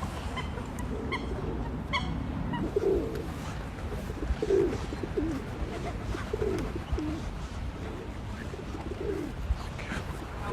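A bird's low calls, repeated several times a second or two apart, with a few short high chirps in the first seconds.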